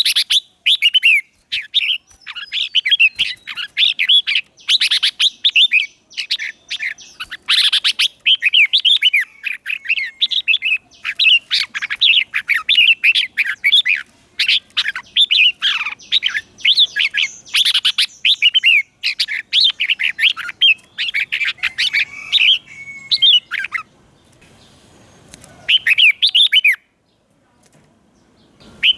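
Red-whiskered bulbuls singing: quick, warbled phrases that follow one another almost without a break. Near the end the song stops for a couple of seconds, then one more phrase comes.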